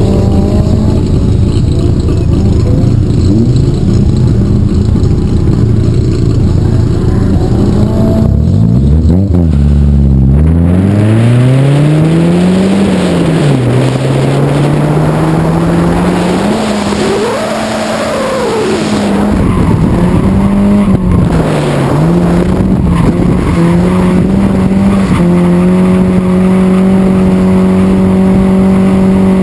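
Nissan 240SX's KA24DE 2.4-litre four-cylinder engine, breathing through a 3-inch exhaust and test pipe, revving up and down through a drift run: it climbs steeply about ten seconds in, rises and falls several times, then holds high revs near the end. Tyres squeal under it through the later part.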